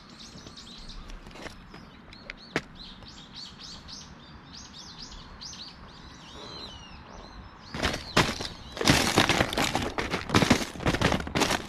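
Small birds chirping over and over in short rising and falling calls. From about eight seconds in, a run of loud, irregular crackles close to the microphone drowns them out.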